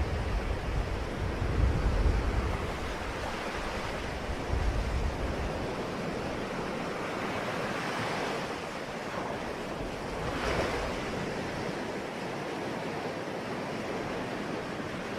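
Ocean waves breaking and washing up a shore in a steady wash, with a deep rumble through the first few seconds and fresh surges about eight and ten seconds in.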